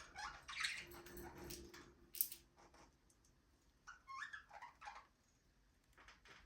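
Budgerigars chirping in short broken bursts, with a sharp loud chirp a little after two seconds in, a lull, then another cluster of chirps around four to five seconds in.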